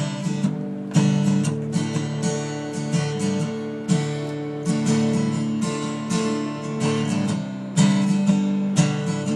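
Acoustic guitar strumming chords in a steady rhythm, a fresh strum about once a second: the instrumental opening of a song.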